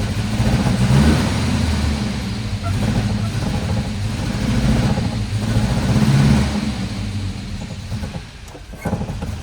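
1966 Volvo 122's B18 1.8-litre four-cylinder engine running, growing louder about a second in and again around six seconds, then easing off near the end. It is not yet running right after the fuel system work, which the owner puts down to the fuel filter.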